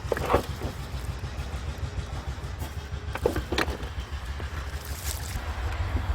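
A steady low rumble with a few sharp metallic clinks and knocks: one about a third of a second in, two close together around three and a half seconds, and one near five seconds.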